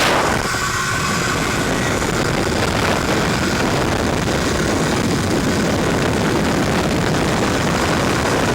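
Motorcycle under way: steady engine and road noise mixed with wind rushing over the microphone. A brighter hiss of wind drops away just after the start.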